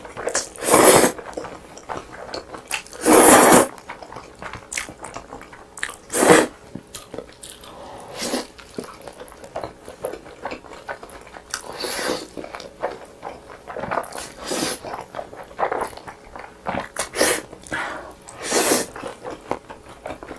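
Noodles being slurped loudly in short bursts every few seconds, with wet chewing and mouth clicks in between.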